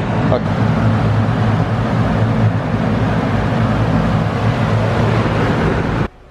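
Homemade electric exhaust fan for a paint booth running steadily with a low motor hum and rushing air, stopping abruptly near the end.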